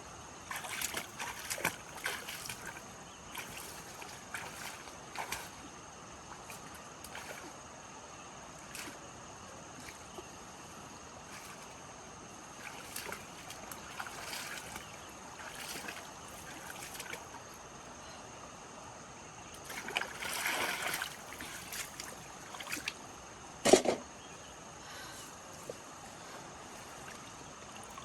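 Water splashing and sloshing in short irregular bursts, with one sharp louder knock about 24 seconds in, over a faint steady high-pitched whine.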